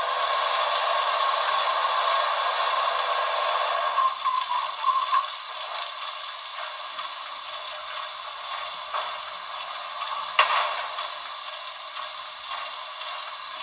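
Water-fill sound effect from a Paragon4 sound decoder, played through the HO scale locomotive's small speaker: water rushing into the tender. It is louder for the first four seconds, with a tone that breaks up and fades, and then settles into a quieter steady hiss. There is a single click about ten seconds in.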